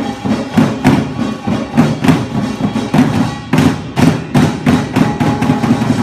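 Korean buk barrel drums struck together in a brisk, even pungmul rhythm, about three strokes a second.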